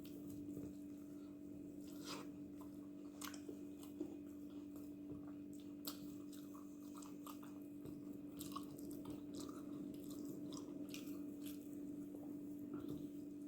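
A person chewing and biting food close to the microphone, with many irregular wet mouth clicks, over a steady low hum.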